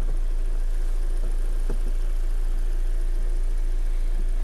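Kia Sportage 3's 2.0-litre G4NA four-cylinder engine idling steadily while it warms up toward fan-on temperature after an overhaul.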